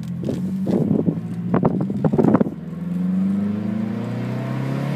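Mazdaspeed 3's turbocharged 2.3-litre four-cylinder with a Cobb short ram intake, heard from inside the cabin while driving. There is a cluster of rapid sharp noises around one to two and a half seconds in that cuts off suddenly. Then the engine note rises smoothly as the car accelerates.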